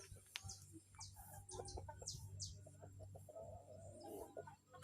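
Chickens clucking softly, with a few short high falling chirps from small birds in the first half.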